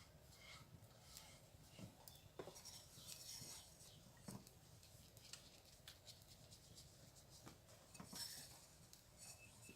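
Near silence, with faint scattered clicks and light scraping from chicken being mixed with gram flour and spices in a bowl.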